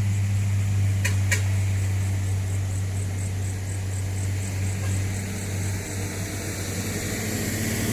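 Diesel truck engine running with a steady low drone, as on a loaded trailer truck pulling uphill. Two sharp clicks come about a second in, and a faint, fast high ticking runs through the middle.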